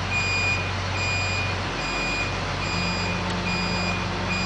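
Crane's back-up warning alarm beeping at a steady, even pace, a little more than once a second, over the low steady hum of the crane's engine.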